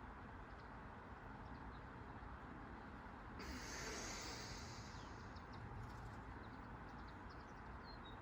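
Faint outdoor ambience with a few short, faint bird chirps, and a brief rush of hiss starting about three and a half seconds in and lasting about two seconds.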